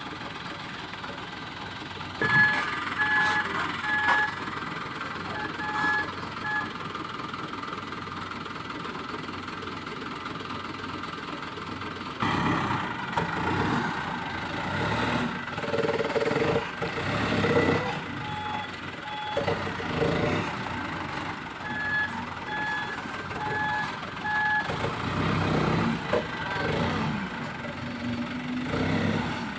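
Toyota Dyna dump truck's reversing alarm beeping in short runs of evenly spaced beeps, a few seconds in and again in the second half, over the truck's engine running. About twelve seconds in the engine gets louder and rises and falls.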